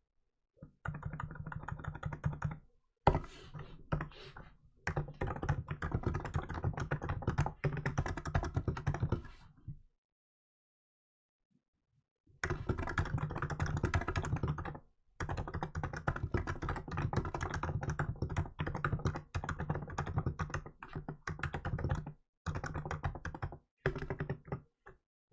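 Fast typing on a Hansung GK868B electro-capacitive keyboard: rapid runs of key presses with short breaks, one sharper keystroke a few seconds in, and a pause of about two seconds in the middle before the typing picks up again.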